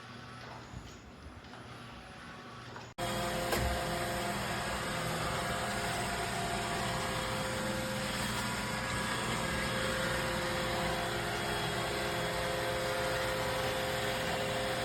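Robot vacuum running with a steady motor whir and hum. It cuts in suddenly about three seconds in, after faint background noise.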